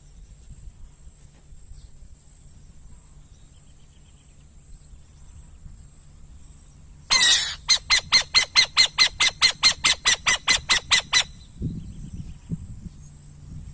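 A bird calling: a harsh screech about halfway through, then a fast run of about eighteen raspy, nasal notes at about five a second, lasting some four seconds.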